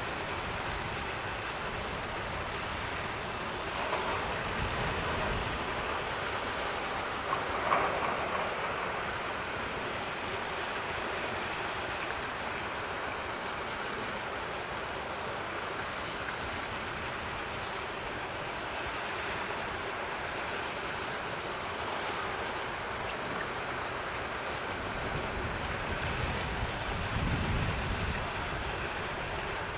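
Steady rushing outdoor background noise, with low wind buffeting on the microphone twice, once about four seconds in and again near the end, and one brief sharper sound about eight seconds in.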